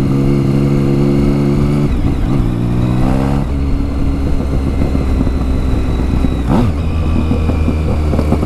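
Triumph Tiger 1050's three-cylinder engine through an aftermarket exhaust, riding at a steady pace. About two seconds in it changes gear and the revs climb. It shifts up again about a second and a half later and then runs steadily.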